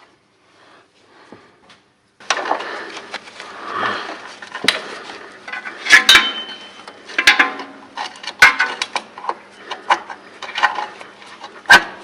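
Metal hand tools and parts clinking, clicking and knocking as they are worked, a busy irregular clatter with several sharp louder knocks. It starts about two seconds in, after a near-quiet start.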